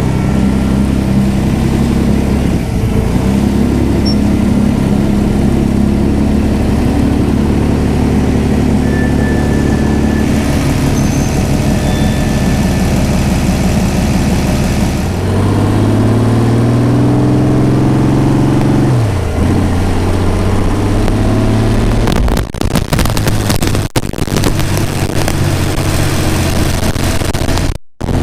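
The Shelby AC Cobra's 1000 HP V12 marine racing engine running loud on the road, steady at first, then revving up with a rising pitch about halfway through before dropping back to a steady run.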